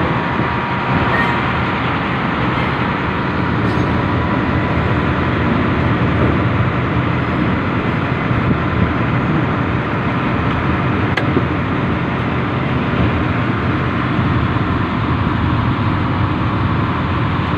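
Industrial train running steadily, heard from on board: a constant loud running noise with a faint steady tone through it and a single sharp click about eleven seconds in.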